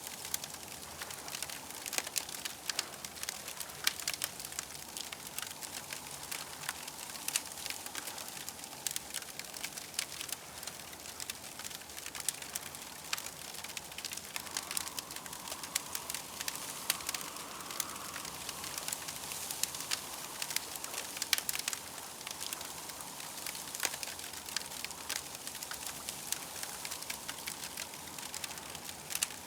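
Campfire crackling, with constant small irregular pops and snaps over a steady hiss. A faint wavering tone rises and fades in the middle.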